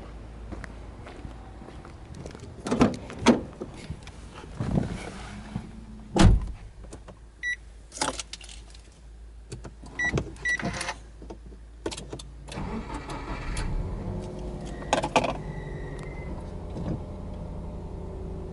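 Car door handling, with several knocks and a heavy thump of the door shutting, then three short electronic beeps from the dashboard. About twelve seconds in, the starter cranks and the Subaru Impreza's 1.5-litre flat-four engine catches and settles into a steady fast idle of about 1,300 rpm, a cold-start idle.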